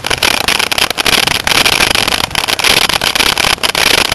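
Wind buffeting the microphone of a camera carried on a moving bicycle: a loud, rough rushing that flutters rapidly in level.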